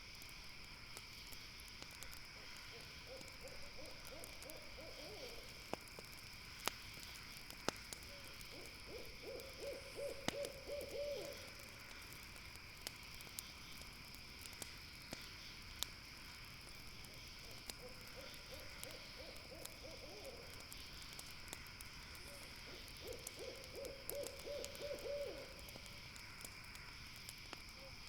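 An owl calling in four short trilled bouts of fast repeated notes, against a steady high chirring, with a few sharp pops of a campfire crackling in between.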